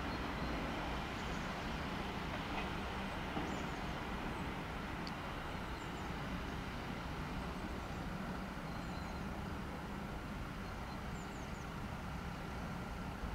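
ÖBB Railjet passenger train running through the station: a steady rail rumble that eases slightly, with a few faint high chirps.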